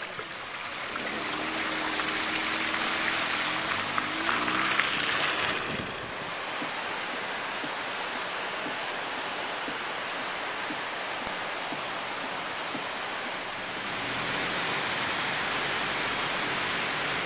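Floodwater rushing down a swollen, debris-laden river channel: a steady roar of fast-moving water, a little louder in the first few seconds, with a faint low hum in that stretch.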